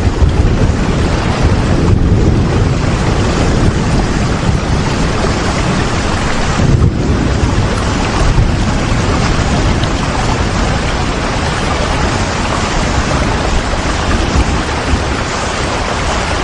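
Steady, heavy rain falling, an even hiss with a deep low rumble underneath.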